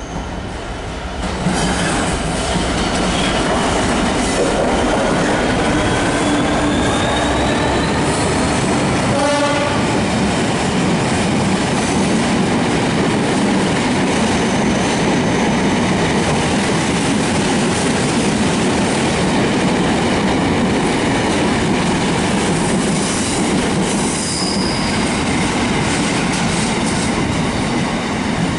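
A Class 66 diesel freight locomotive passes close, its EMD two-stroke V12 engine working. A long rake of box wagons follows, rolling steadily by with wheels clattering over rail joints and squealing on the curved track.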